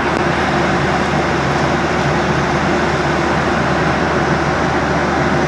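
Airliner cabin noise in flight: the steady rush of engines and airflow heard from inside the cabin, with a faint low hum.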